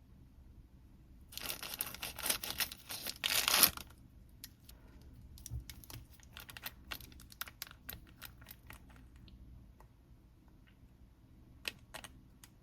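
Plastic packaging torn open by hand in a loud rasping burst lasting about two seconds, followed by scattered light crinkles and clicks of the wrapping being handled.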